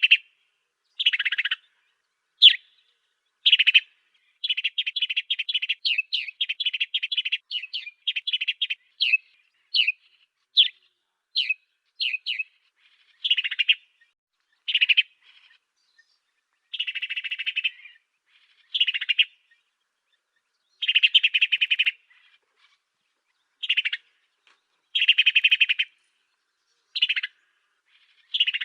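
Song of the bird kept in Indonesia as the 'African sparrow' (burung gereja afrika): short, harsh chirps and buzzy notes in phrases separated by silences, with a fast run of chirps about five to nine seconds in. It is a tutor recording played to teach cage birds this song.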